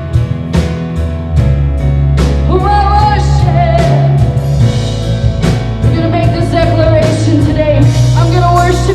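Live worship band playing a rock-style song, with regular drum hits and a sustained melody line; a heavy bass comes in about a second and a half in.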